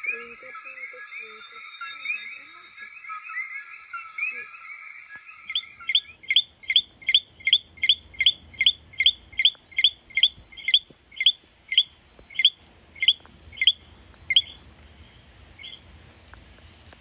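A dense chorus of Puerto Rican frogs calling over one another. About five and a half seconds in, a single frog calls instead: a run of short rising chirps, a little over two a second, which slows and thins out near the end.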